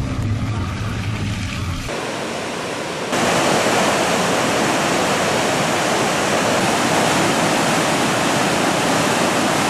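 A low rumble fades out about two seconds in, giving way to a steady, loud rush of water that gets louder about three seconds in.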